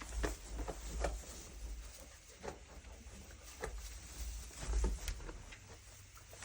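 Goats feeding on hay and bran: scattered rustles and soft knocks, with a low rumble underneath.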